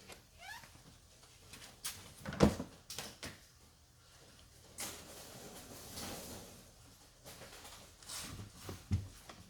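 Scattered knocks, clunks and rustling of hands working on parts, with a short rising squeak near the start and a sharp loud clunk about two and a half seconds in.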